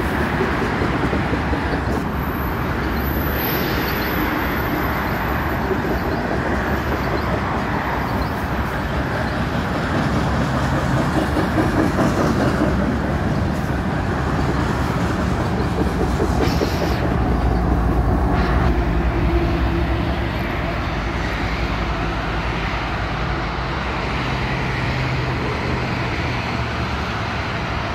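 Loaded covered hopper cars of a CN potash freight train rolling by on the rails: a steady rumble of wheels on track, swelling deeper for a few seconds between about 17 and 20 seconds in, with highway traffic mixed in.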